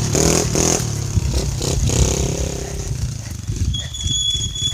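Dirt bike engine revving as the bike rides past, its sound shifting in pitch and then fading as it moves away.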